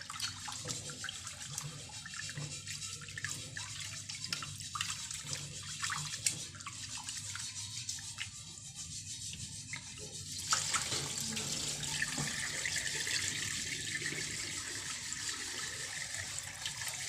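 Tap water running into a kitchen sink, with small scattered knocks and clicks, as of things being rinsed or handled in the water. The flow gets louder about ten seconds in.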